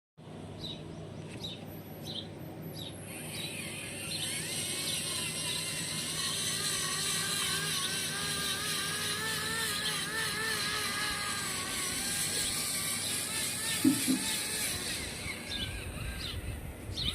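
Small electric motors of model tractors whining under load, their pitch wavering up and down, with a single knock about two thirds of the way in. Birds chirp briefly at the start.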